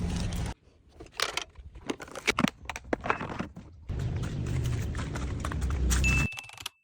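Stick (MMA) arc welding with a mini inverter welder: the arc runs with a steady crackling hiss and low hum, cuts out about half a second in, gives way to scattered sharp clicks and crackles, then runs again from about four seconds in. A short high steady tone sounds near the end.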